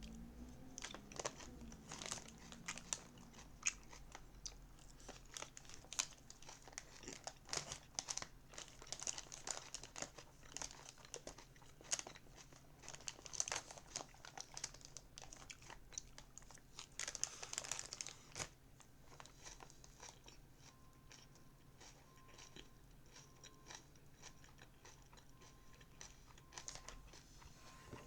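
Crunchy chewing of salad close to the microphone, mixed with plastic crinkling from the salad packaging. The crunching and crinkling are busy for the first two-thirds, then die down to faint occasional clicks.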